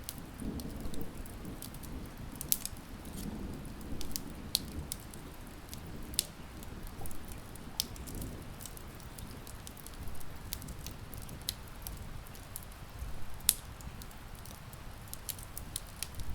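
Steady rain pattering on a window over a wood fire crackling, with sharp pops and snaps at irregular moments.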